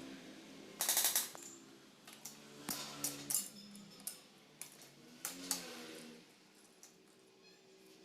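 Metal tools and engine parts clicking and clanking during the dismantling of a scooter engine, with a short, rapid rattle of clicks about a second in and a string of separate sharp clanks after it.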